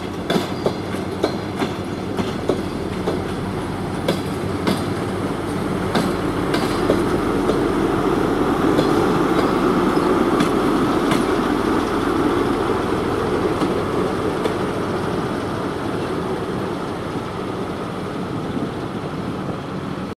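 Train wheels clacking over rail joints, a run of sharp clacks in the first few seconds, then a steady rail rumble that swells around the middle and eases off as a DR1A diesel railcar runs close by.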